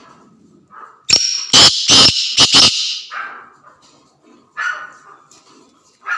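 Black francolin calling: a loud, harsh run of about five grating notes lasting about two seconds, followed by a couple of fainter calls.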